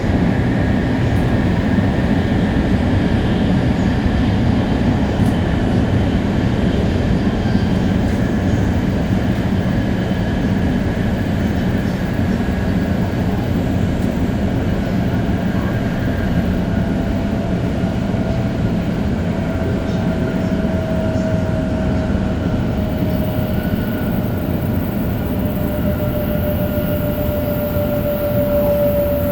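Onboard running sound of a Shinkansen 500 series train with Toshiba GTO-VVVF traction inverters: a steady, loud rumble of wheels on rail. A motor whine comes up past the middle and slowly falls in pitch as the train slows.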